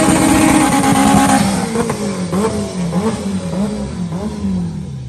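Turbocharged K24 four-cylinder in an EK Civic hatchback held at high revs, then dropping off. It rises and falls in pitch in quick swings about twice a second, then winds down low near the end.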